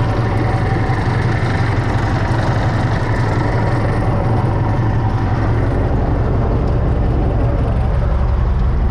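UTB Universal 650 tractor's four-cylinder diesel engine running steadily, its note deepening a little past the middle.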